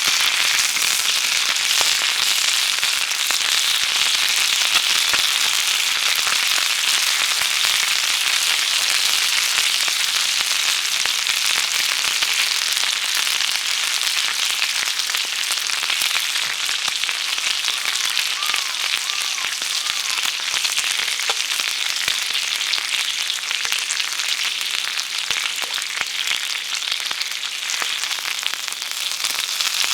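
Meat grilling over a wood campfire: a steady sizzle with dense crackling and pops.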